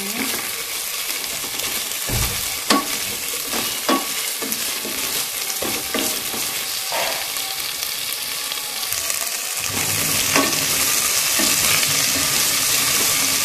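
Lemongrass, kaffir lime leaves, galangal and ginger sizzling in a little oil in a pot, stirred with a wooden spatula that knocks and scrapes against the pot every second or two. The sizzle grows louder about ten seconds in.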